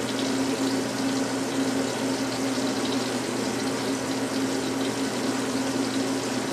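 Onions and peppers sautéing in a covered pan over low heat: a steady, even sizzle with faint crackles, over a steady low hum.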